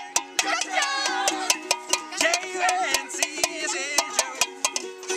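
A sung song over a strummed ukulele, with sharp percussive hits a few times a second.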